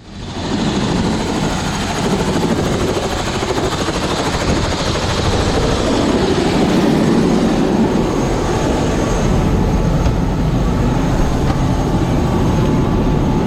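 Aircraft running steadily, a loud continuous drone of engine and rotor or propeller noise, starting abruptly.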